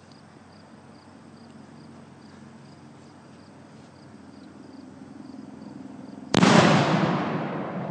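Fuse-lit cannon firing: a single sudden loud boom about six seconds in, trailing off over more than a second.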